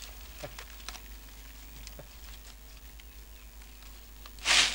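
Faint scratches and ticks of a wooden stick working against dry, crumbly earth, then near the end a loud, brief rushing hiss.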